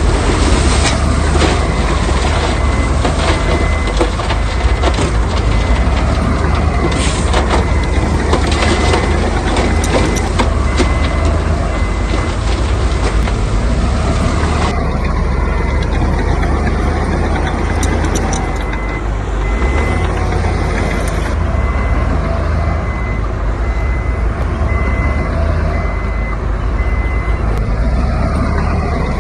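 Heavy earthmoving machinery running with a deep diesel rumble while a reversing alarm beeps at an even pace. Through the first half there is a dense clatter of knocks and rattles, which thins out about halfway.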